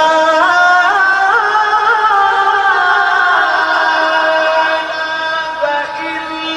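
A man reciting the Quran in the melodic tajweed style, holding one long drawn-out vowel with small ornamental trills about a second in and a slight dip in pitch near the end.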